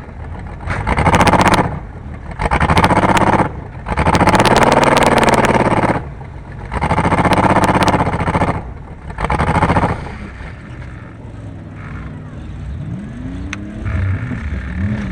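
Car engine revving hard in six bursts of a second or two each, dropping back between them, then running lower with its pitch rising and falling near the end.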